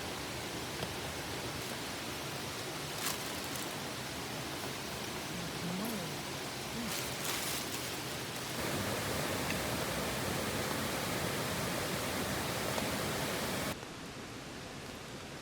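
Steady rushing noise like running water from a stream, with a few faint clicks. It grows a little louder past the middle and drops suddenly near the end.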